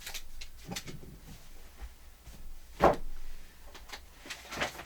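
Objects being handled and set down: several knocks and clatters, with one loud thump nearly three seconds in.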